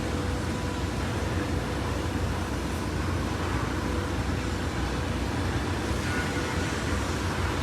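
Steady low rumble of a large ship's machinery, with a faint steady hum above it.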